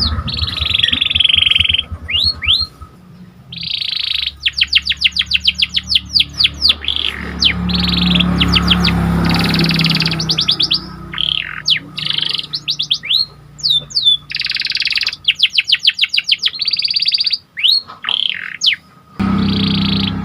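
Domestic canary singing loudly: fast rolling trills of rapidly repeated notes, buzzy phrases and quick downward-sweeping whistles, broken by brief pauses.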